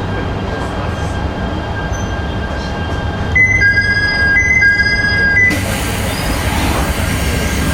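Inside the car of a 719 series 5000-subseries electric multiple unit: a steady low rumble, with a high two-note tone sounding for about two seconds midway, followed by a rush of noise.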